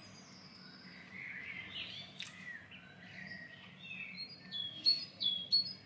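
Songbirds singing in the background: warbling, gliding calls, then a quick run of short repeated chirps near the end. A single click about two seconds in.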